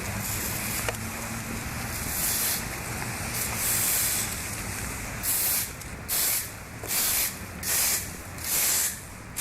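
Steady hissing noise. From about halfway through, louder hissing bursts come at a regular pace of roughly one every 0.7 s.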